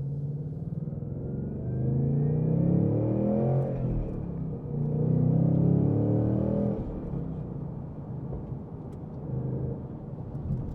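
2026 Ford Mustang GT's 5.0-litre V8 accelerating hard: the revs climb, drop briefly about four seconds in as the next gear of the six-speed manual goes in, and climb again. After that the engine settles back to a lower, quieter cruise.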